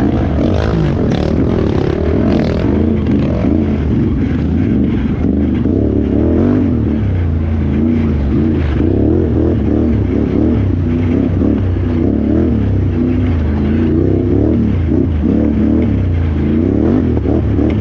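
Can-Am Renegade XXC 1000R ATV's V-twin engine revving up and down over and over, pitch climbing and dropping every second or two as it is ridden hard off-road, with short knocks and rattles in the first few seconds.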